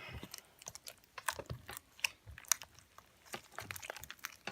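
Slime being kneaded and squeezed by hand with shaving cream worked into it: irregular small wet clicks and pops, several a second.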